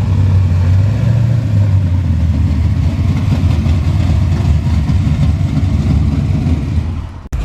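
Car engine and exhaust running with a steady low drone, cut off abruptly near the end.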